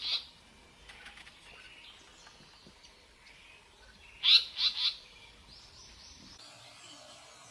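A small bird giving quick bursts of three sharp, high chirps, once right at the start and again about four seconds in, with fainter calls between.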